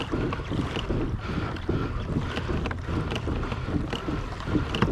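Kayak moving across open water: water splashing and slapping against the hull, with wind buffeting the microphone and a few small clicks.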